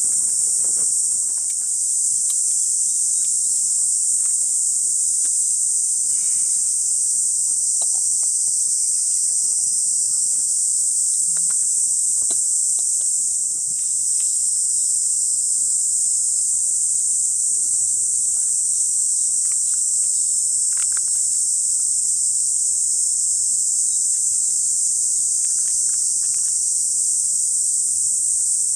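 Steady, high-pitched chorus of crickets, unbroken throughout, with scattered faint clicks underneath.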